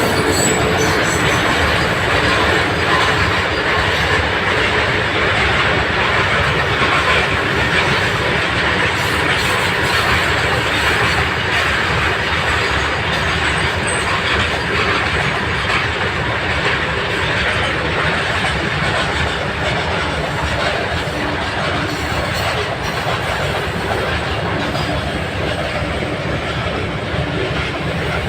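Train running on the track: a loud, steady rumble and rattle of wheels on rail, easing slightly toward the end.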